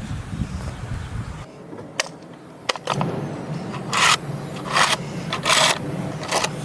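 Wood being rubbed or scraped with a hand tool in three loud strokes, about one every 0.8 seconds, with light clicks between them. Before that, a low buzzing hum stops abruptly about a second and a half in.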